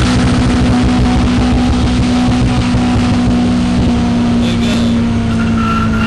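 Volkswagen GTI engine running hard at a steady pitch that holds unchanged throughout, with no rise or fall in revs.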